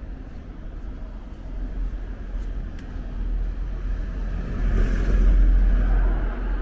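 A road vehicle passing close by, its noise growing louder to a peak about five seconds in and then easing off, over a steady low rumble.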